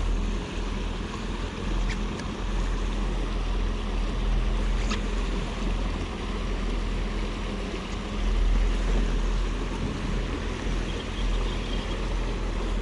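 Boat on a fast-flowing river: a steady motor hum under rushing water and a low wind rumble on the microphone. A couple of faint ticks cut through.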